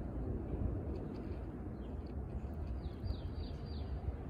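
A steady low outdoor rumble, with a small bird giving four quick, falling chirps about three seconds in.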